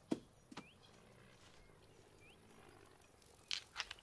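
Faint outdoor quiet with a distant small bird giving a short rising chirp three times. There is a soft tap or two early on, and two louder short rustles close together near the end.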